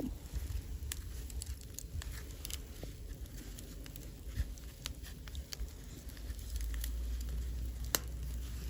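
Wind rumbling on the microphone during a snowstorm, stronger in the last couple of seconds, with scattered light ticks and one sharper click near the end.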